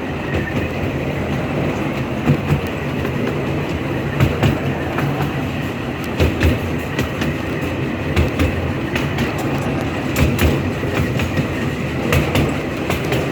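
Riding in a moving train car: wheels rumbling steadily on the track, with irregular clicks and knocks as they pass over rail joints.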